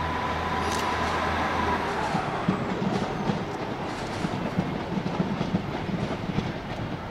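Passenger trains moving over the tracks and points, a steady rumble with wheels clicking over rail joints. A high steady tone fades out about two seconds in.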